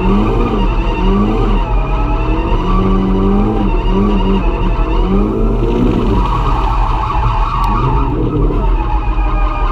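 A drift car's engine revving up and falling back again and again under hard driving, with tyre skid noise underneath.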